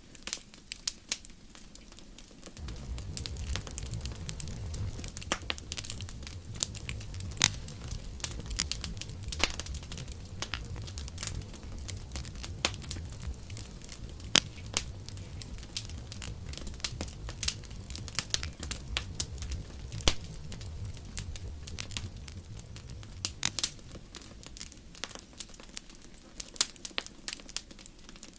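Campfire crackling, with frequent sharp pops and snaps of burning wood. A low rumble sets in about two seconds in and fades out near the end.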